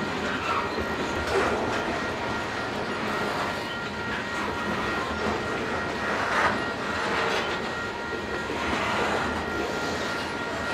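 Covered hopper cars of a long grain freight train rolling past: steady rumble and clatter of steel wheels on the rails, with a few louder irregular clanks, the biggest about six seconds in.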